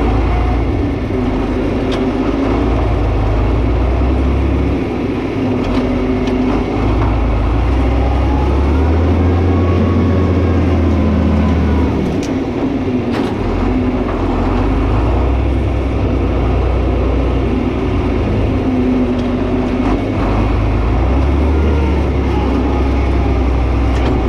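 John Deere 4320 tractor's diesel engine running under changing load while pushing with the blade, its low note shifting up and down every few seconds. A couple of sharp knocks come just past the middle.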